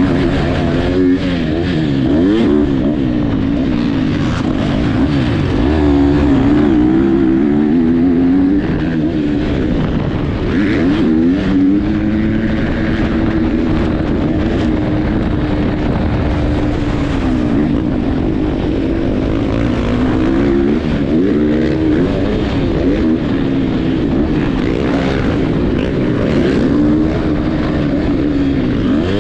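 Motocross dirt bike engine revving hard and easing off again and again, its pitch climbing and dropping through the gears as it races around the track.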